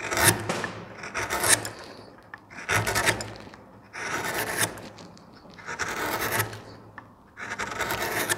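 Freshly sharpened wood carving chisel slicing through wood in test cuts: about six separate scraping strokes, roughly one and a half seconds apart.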